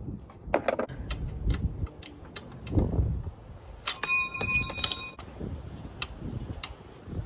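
Hand tools and metal parts clicking and knocking while working on a motorcycle's intake, with one clear metallic ring, like a tool or metal part struck, lasting about a second about four seconds in.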